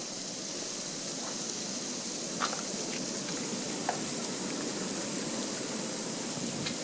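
Steady hiss of blizzard wind, with a few faint ticks scattered through it.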